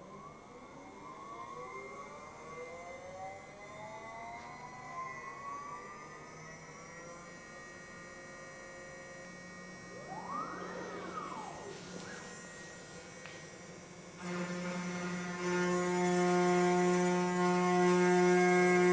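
Stepper motors of a large DIY CNC router whining as the axes move, their pitch rising and falling with each move. About 14 seconds in a steady, louder hum with many overtones sets in and grows louder still, the spindle running as the first cut begins.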